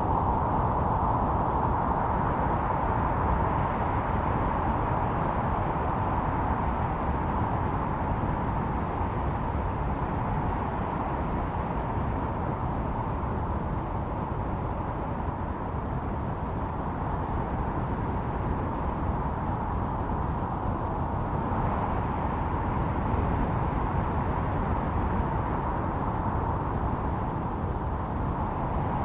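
Blizzard wind blowing steadily with a howling whistle, easing a little partway through and building again later on.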